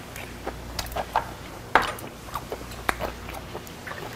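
Close-up chewing: a person eating with irregular wet smacks and mouth clicks, the sharpest clicks about two and three seconds in.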